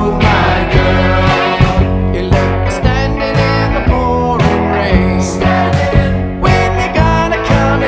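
Rock band recording playing: guitars and bass over a steady drum beat.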